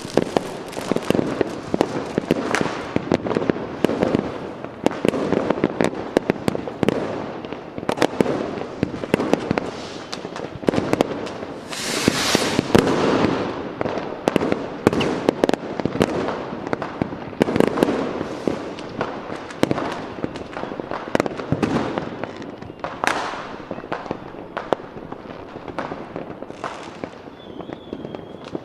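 Fireworks display: a dense run of bangs and crackling bursts, with a loud hiss about halfway through and a short whistling tone near the end.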